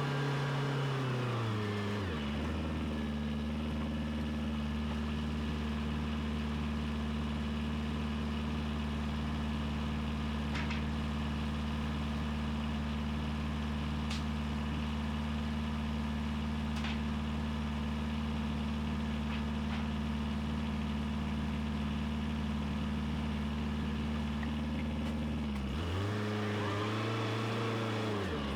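Tractor engine running: it throttles down about two seconds in, then runs steadily at low revs, and revs up briefly and drops back again near the end.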